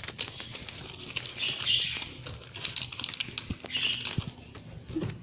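Crinkling and rustling of plastic packaging as it is handled, coming in uneven bursts with scattered sharp clicks and taps.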